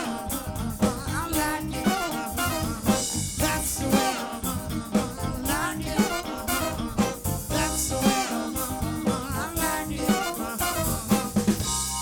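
Live soul band playing a song: drum kit keeping a steady beat under bass and other instruments, with a singing voice on top.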